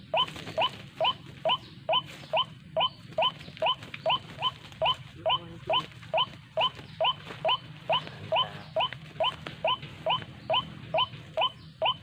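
White-breasted waterhen (ruak-ruak) call: short rising notes repeated very regularly, about three a second, over a low steady hum.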